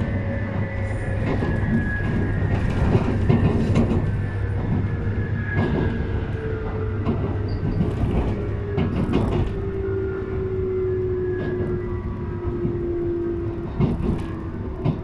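Running sound of a JR East 719-series electric train, heard onboard: a steady rumble with scattered clicks of wheels over rail joints, and a whine whose pitch slowly falls as the train slows to stop at a station. This set is known as the odd-noise car.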